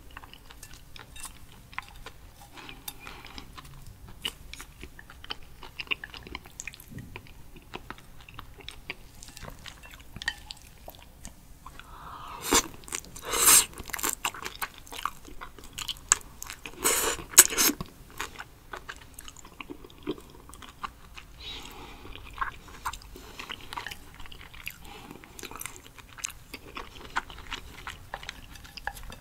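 Close-miked chewing of raw sweet shrimp: soft, wet mouth clicks and smacks throughout, with two louder bursts about halfway through.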